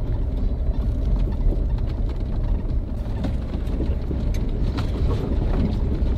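Jeep driving slowly over a rough dirt track: a steady low rumble with scattered knocks and crunches from the tyres and suspension.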